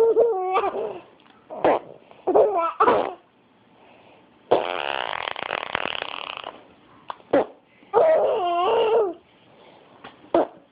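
A mother's silly vocal noises and a baby's laughing and babbling: short pitched squeals, and one long raspberry-like buzz of about two seconds in the middle.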